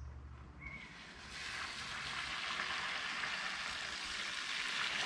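Water rushing and splashing at a shallow stream ford, a hiss that swells up about a second in.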